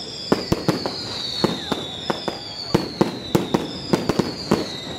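Fireworks display: an irregular string of sharp bangs and pops, several a second, over high whistles that slide down in pitch, one after another.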